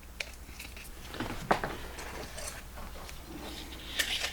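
Sharpening stones and kit parts being handled in their case: a scattering of light clicks and taps with faint rustling, the loudest tap about a second and a half in and a cluster near the end.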